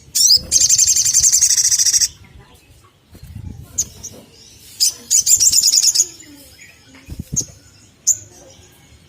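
Olive-backed sunbird calling: a fast, high trill of about two seconds, a few single sharp chirps, then another trill of about a second, and more single chirps near the end. This is the sunbird call used as a lure to set other sunbirds singing.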